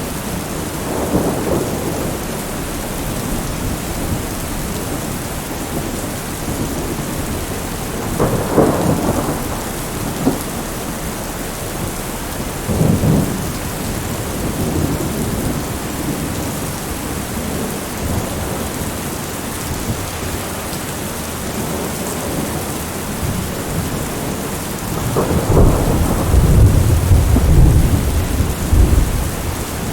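Heavy rain beating steadily on window glass, with rolls of thunder rumbling through it: short rumbles a few times, then a longer, louder roll near the end.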